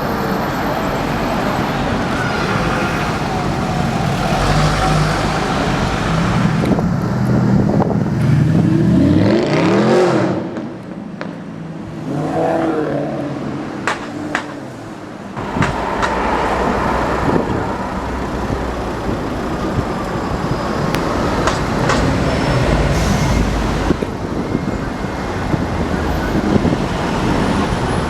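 Street traffic with passing cars. About eight seconds in, a car engine accelerates, its pitch climbing for a couple of seconds before the sound drops away.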